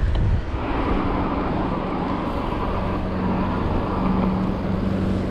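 Motor vehicle engine running close by with a steady low hum that holds one pitch, coming in about half a second in.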